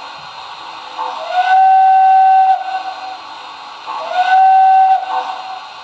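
Model train locomotive's electronic sound system sounding a steam-style whistle twice. Each blast slides up into a steady tone, the first longer than the second, over a steady background hiss.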